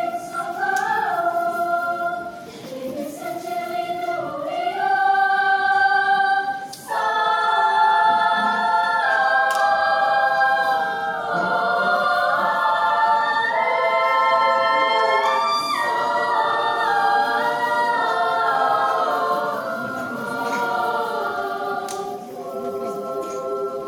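A children's and youth church choir singing, apparently unaccompanied. Only a few voices at first, then fuller held chords from about seven seconds in.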